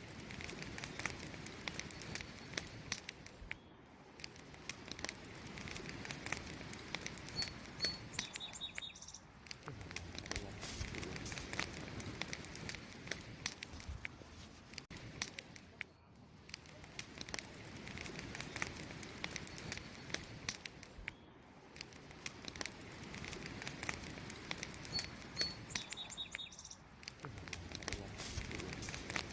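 Wood campfire crackling, with a dense stream of small sharp snaps and pops over a soft rush of flames that swells and eases every several seconds. A bird chirps a few short high notes twice, about a quarter of the way in and again near the end.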